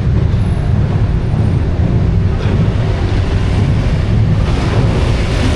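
Loud, steady rumble of car engines running close by, with wind buffeting the microphone.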